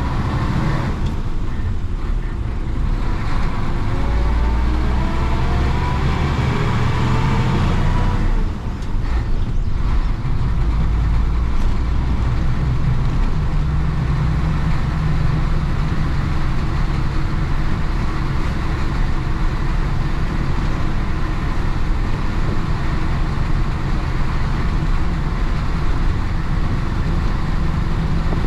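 1966 Isuzu BXD30 bonnet bus's DA640 six-cylinder diesel engine pulling the bus along. Its note rises over several seconds, breaks off briefly about eight seconds in, then runs steadily.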